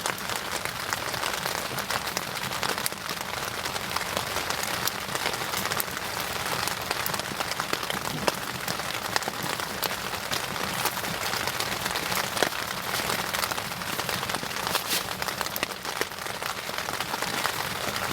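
Wood fire burning steadily, with a constant hiss and many small crackles and pops scattered throughout.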